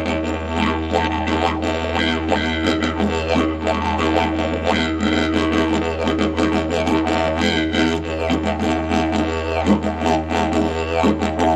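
Didgeridoo in the key of E playing a steady low drone, with rhythmic shifts in its overtones throughout.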